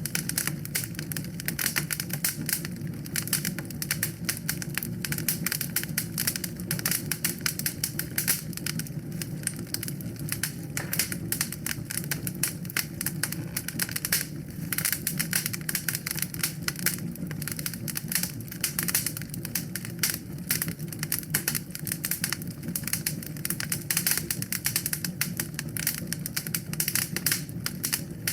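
Wood fire in a fireplace crackling steadily, with rapid, dense snaps and pops over a low rumble of the flames.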